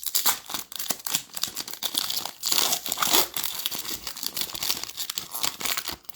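Select basketball trading card pack being torn open, its wrapper crinkling and crackling in a dense run of small crackles, busiest around the middle.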